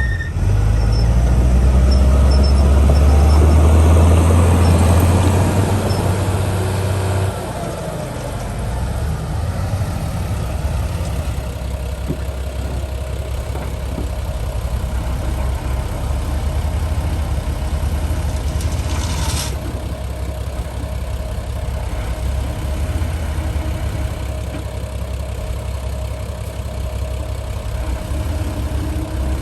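Heavy diesel earthmoving machinery running: a loud, low engine for about the first seven seconds, then dropping to a quieter, steady running with a faint steady whine over it.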